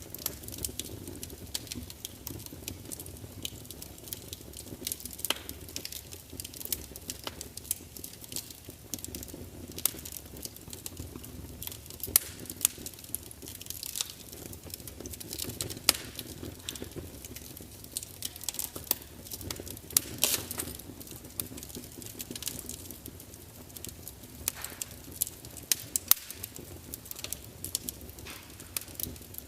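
Wood fire burning in a large open fireplace: logs crackling and spitting with irregular sharp pops over a low steady rumble of flames.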